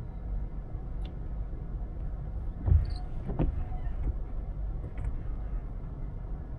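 Low, steady rumble of a car driving, with a thump about two and a half seconds in, a second knock shortly after, and a few faint ticks.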